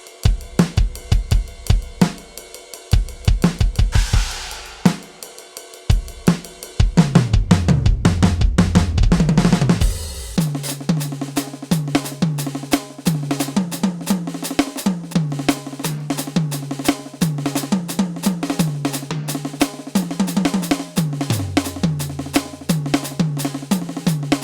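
KAT Percussion KT4 electronic drum kit played through its preset sounds: a beat of kick, snare and cymbal crashes, then a tom fill falling in pitch. About ten seconds in, the sound changes to a quick run of pitched, electronic-sounding drum hits, which drop lower in pitch near the end.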